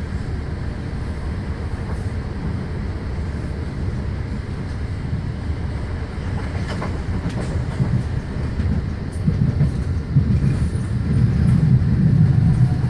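Passenger train running on the line, heard from inside the carriage: a steady low rumble of wheels on track with a few clicks over rail joints, growing louder in the last few seconds.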